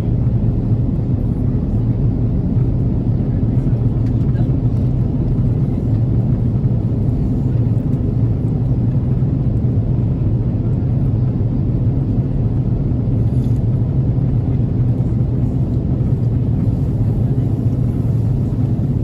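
Steady low rumble of an Airbus A330-300 airliner's engines and airflow, heard from inside the economy cabin as the plane approaches to land.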